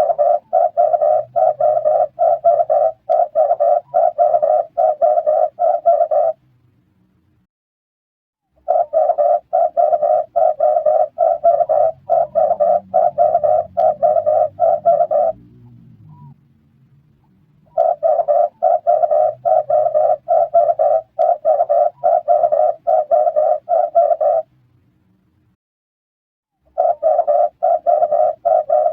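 Red turtle dove calling: fast runs of rough, evenly repeated coos, about three a second. The runs last six seconds or so, with short pauses between them, four times over.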